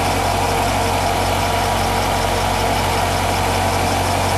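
Nissan X-Trail T32 with a CVT running at low speed under gentle acceleration: a steady mechanical hum over the engine's drone, with a faint, fast, even ticking high above. The hum is the one the shop goes on to trace to the right wheel hub bearing rather than the variator.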